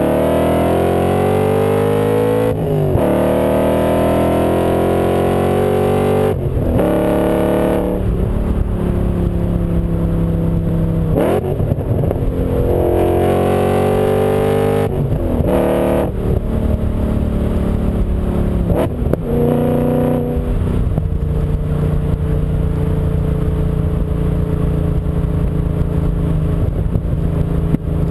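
BMW M5 V8 engine under hard acceleration, its pitch climbing again and again with a short break at each of several gear changes. In the last third it holds a fairly steady pitch at speed.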